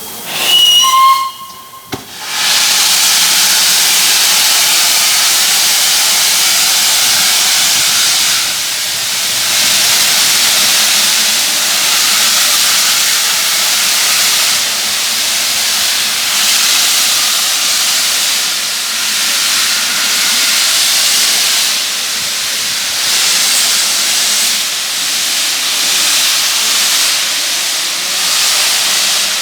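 LNER Peppercorn A1 Pacific steam locomotive Tornado giving a short whistle blast about half a second in, then a loud, steady hiss of escaping steam that swells and eases slightly and keeps going.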